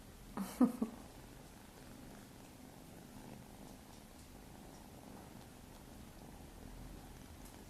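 Maine coon kitten purring steadily. About half a second in comes a short, louder cluster of three quick sounds.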